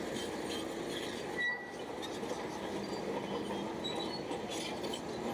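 Bulldozer's steel crawler tracks squealing and clattering as the machine works, with a brief louder squeal about one and a half seconds in.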